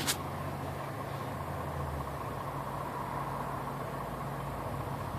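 Fire truck engine idling steadily, a low even hum.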